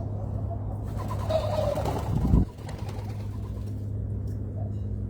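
A dove cooing at a backyard feeder, with a loud low thump about two and a half seconds in, over a steady low hum.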